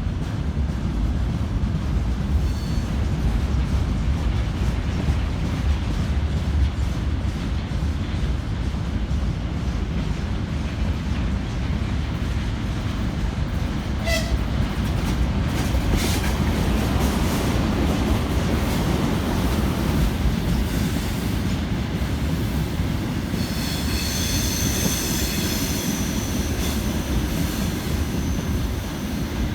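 An electric-locomotive-hauled train rolling along the track with a steady heavy rumble, a couple of sharp clicks about halfway through, and a high-pitched wheel squeal for a few seconds near the end.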